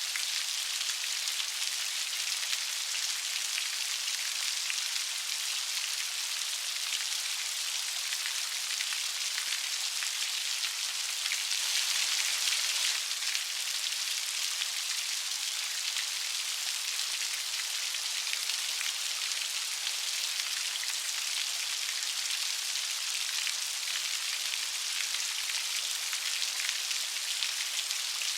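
Steady light rain falling, an even hiss of fine pattering drops that swells slightly about twelve seconds in.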